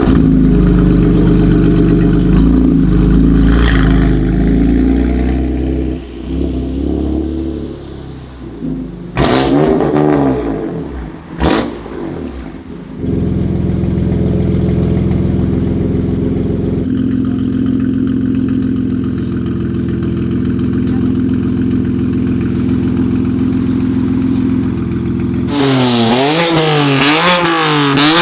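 BMW M4 F82's twin-turbo inline-six running through a Milltek exhaust: a steady loud idle that drops back after about six seconds. There are two quick revs near ten and eleven and a half seconds, then a steady idle again, and a rapid series of rev blips near the end.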